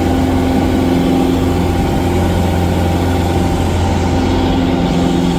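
Cessna 177 Cardinal's single piston engine and propeller running steadily, an even drone with a strong low hum.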